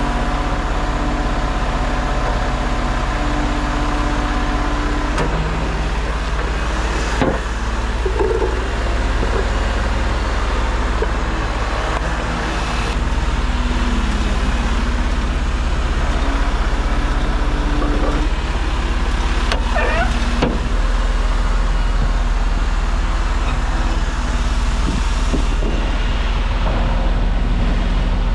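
Heavy truck's diesel engine running steadily, its pitch stepping up and down now and then, with a few short clicks or knocks.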